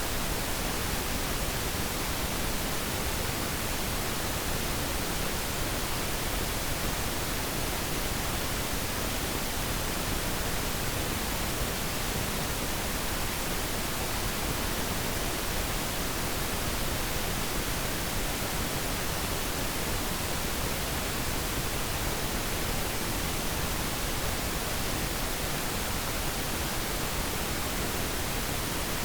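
Steady pink noise: an even, unchanging hiss with less treble than white noise, generated to mask distracting sounds.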